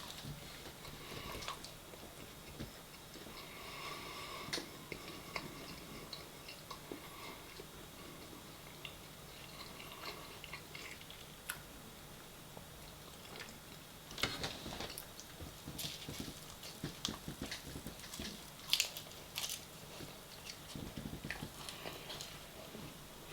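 Close-miked chewing and biting of food, wet mouth sounds with scattered small clicks and crunches, busiest in a run of sharper crunches a little past halfway.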